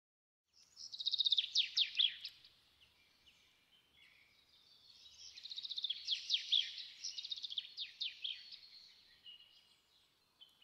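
A songbird singing: quick high trills of falling chirps in two long bouts with softer twittering between, starting about half a second in.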